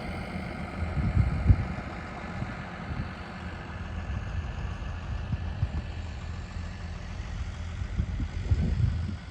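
A heavy truck engine runs steadily throughout. There are a few louder low knocks about a second and a half in and again near the end.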